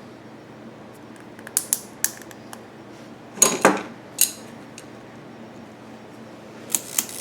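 Small metal and plastic parts clicking and clinking as fuel-hose fittings and hose clamps are handled on a workbench. There are a few light clicks, a louder cluster of clinks midway, and more near the end.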